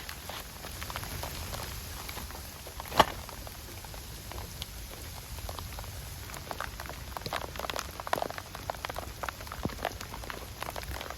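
Rain falling, with many small drop hits ticking irregularly. One sharp, louder click comes about three seconds in.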